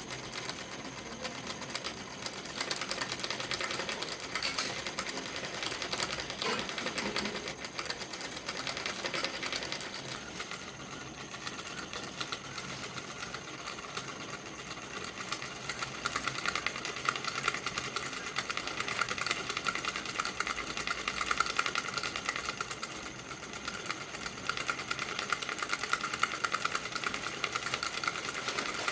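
Homemade 5-volt solenoid engine running, its plunger clattering rapidly and steadily. A higher buzzing tone grows stronger about halfway through.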